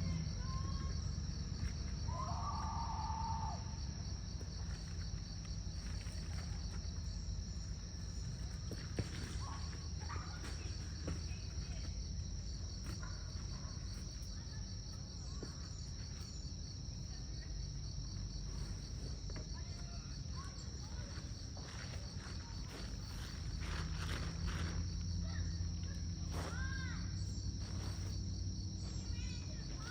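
Crickets chirping in a steady, rapidly pulsing high chorus, over a low rumble that swells near the start and again toward the end. A few short whistled calls come through, one a couple of seconds in and another near the end, with scattered light clicks.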